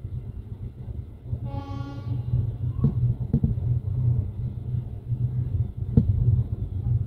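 Train running out along the platform with a steady low rumble, a short blast of the train horn about a second and a half in, and a few sharp knocks.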